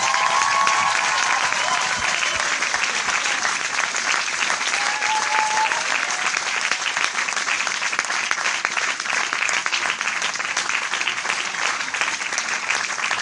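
Large crowd applauding steadily, a dense, even wash of many hands clapping. Two brief faint calls from the crowd rise above it, near the start and about five seconds in.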